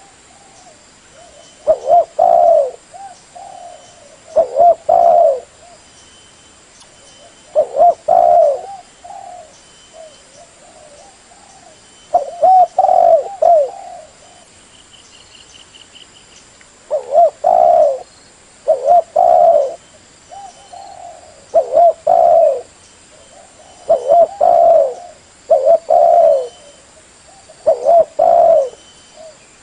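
Spotted dove (terkukur) cooing, a loud phrase of several coos about every two to three seconds with softer coos in between.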